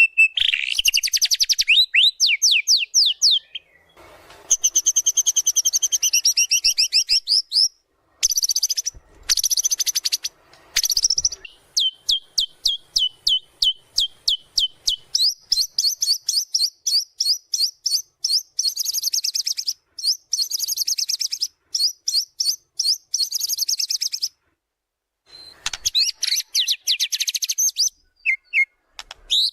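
White-rumped shama singing a loud, fast song of rapid repeated high chirps and trills, one long run after another with a few short breaks. It is in full song, running through its repertoire of phrases.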